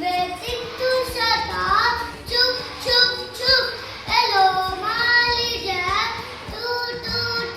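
A child singing a nursery rhyme, the voice rising and falling in pitch with short breaks between phrases.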